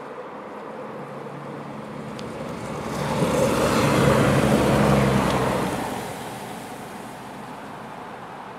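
Vogtlandbahn diesel multiple-unit railcar passing close by: a low engine hum and rushing wheel noise swell to their loudest in the middle as it goes past, then fade as it runs away.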